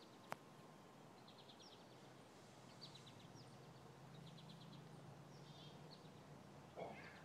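Faint outdoor bird chirps: short runs of quick, high notes every second or so. A single sharp click comes just after the start, a low hum rises and fades in the middle, and there is a brief rustle near the end.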